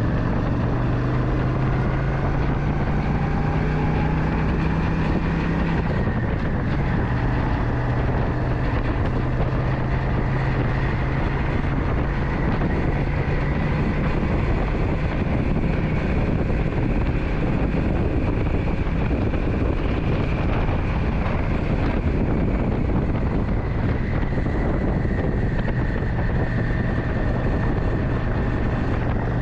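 Motorcycle engine running steadily while riding, with wind noise on the microphone; the engine note drops slightly about six seconds in.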